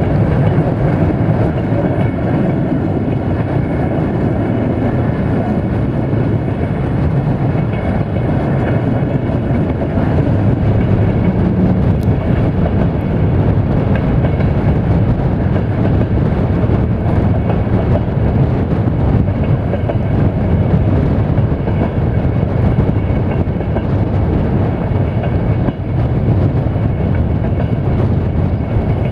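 Passenger train coaches running at speed, a steady rumble of steel wheels on the rails mixed with rushing air, heard from an open coach window.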